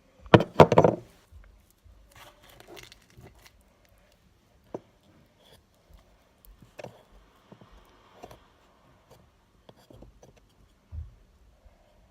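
Small craft pieces being handled: a loud burst of rattling clicks about half a second in, then scattered light clicks and scrapes.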